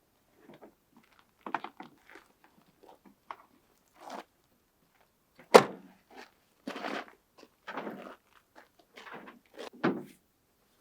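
Irregular knocks and rustles of things being handled, with one sharp knock about halfway through and a heavier thunk near the end.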